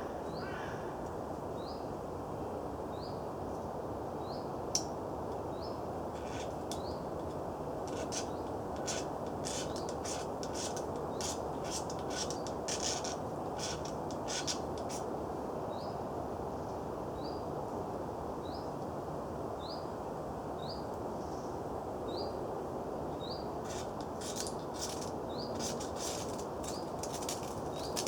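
Ferrocerium fire steel scraped in quick, rasping strokes to throw sparks into tinder, in two runs of strikes, the first from about eight seconds in and the second near the end. A bird repeats a short rising chirp about once every second or so throughout, over a steady background hiss.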